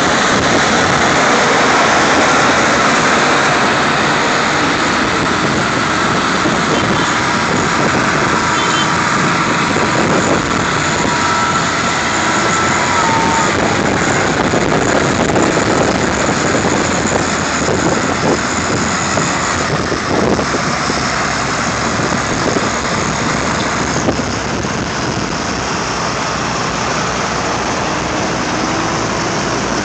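Vintage tractor engines running steadily at close range.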